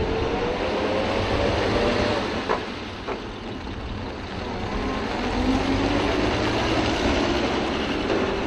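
Truck engine running at low speed, its pitch slowly rising, dipping midway and rising again as it moves, over a steady low rumble. Two short clicks come a little before the middle.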